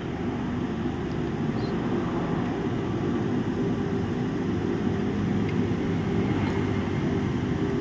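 Steady low droning noise with a faint even hum, unchanging throughout.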